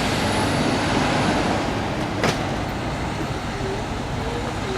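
Water tanker trucks driving past, with steady engine and road noise. A sharp click sounds about two seconds in.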